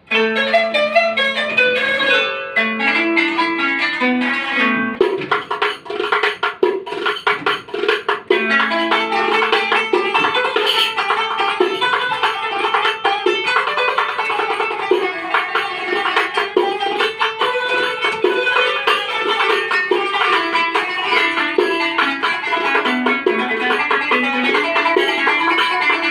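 Kanun, the Turkish plucked zither, improvising in quick runs of plucked notes, accompanied by a tef frame drum. The drum strokes are densest a few seconds in.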